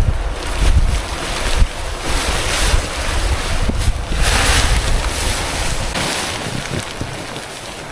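Storm wind gusting hard and buffeting the microphone with a low rumble. A strong gust of hiss comes about four seconds in, then the wind eases slightly toward the end.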